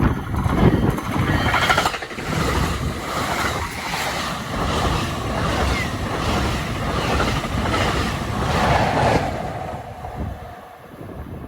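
A train passing on the Northeast Corridor: a steady rush of wheels on rail with a run of regular clicks, dying away near the end.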